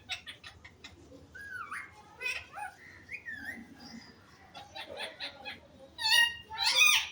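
Pet parrot chattering: a quick run of clicks, short whistled glides, then two loud, harsh calls near the end.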